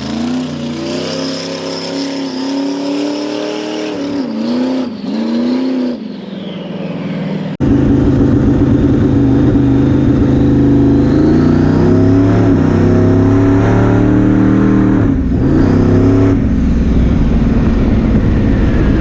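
Twin-turbo big-block V8 of a drag-racing rat rod, blipped and revved a few times. About seven seconds in it jumps suddenly to a much louder hard run that holds for most of the rest, with one brief drop and recovery in pitch near the end, as at a gear change.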